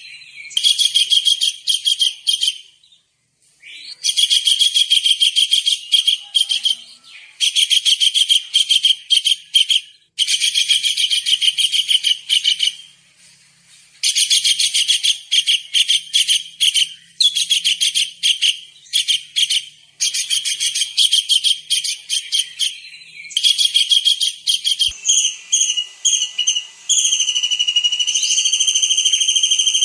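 Tengkek udang kingfisher calling: rapid strings of sharp, high-pitched chips in bursts of about two seconds with short pauses between them. Near the end the chipping gives way to a steady, high whistling tone.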